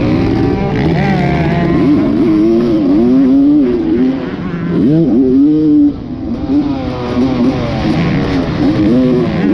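Dirt bike engine being ridden hard, its pitch rising and falling over and over with the throttle, and a brief drop in level as the throttle closes about six seconds in.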